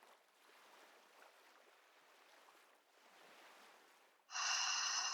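Faint ocean waves wash in the background. About four seconds in, a person breathes out slowly through the mouth in a loud, breathy sighing hiss, the start of the ocean-breath exhale, lasting over a second.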